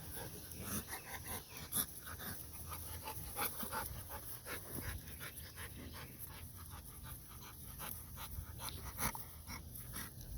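Puppies panting, with many short scuffs and clicks scattered throughout.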